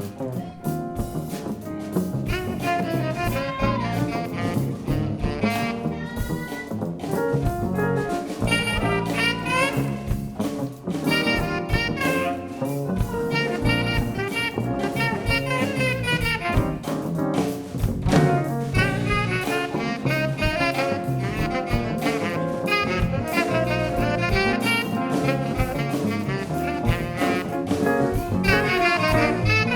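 Live band playing jazz-funk, with saxophone and brass lines over bass and steady drums.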